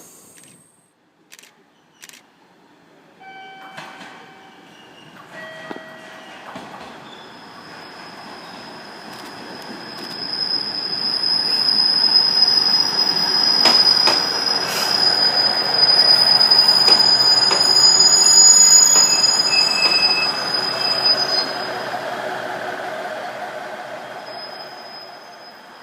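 Two-car KiHa 110 diesel railcar set pulling into a station, with a high, steady wheel squeal for about fifteen seconds. Under the squeal the rolling noise builds, is loudest in the middle and fades as the train slows.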